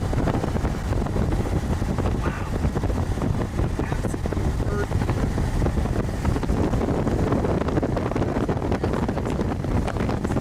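Strong wind buffeting the microphone over the low rumble of a vehicle, a steady noisy roar.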